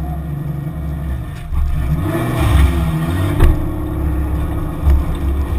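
Toyota Supra's 2JZ straight-six idling, then revving up as the car pulls away about two seconds in. A single sharp knock sounds midway.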